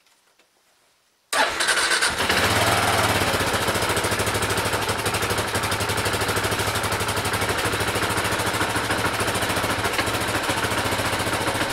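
Kawasaki KLR 650's single-cylinder engine running with a fast, steady pulse, cutting in suddenly about a second in after near silence.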